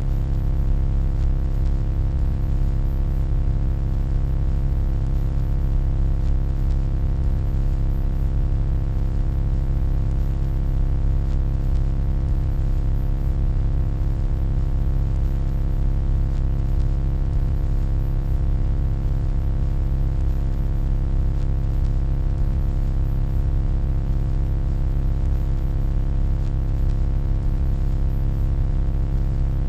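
Steady electronic hum: a deep, dense low drone with faint steady higher tones over it, unchanging throughout.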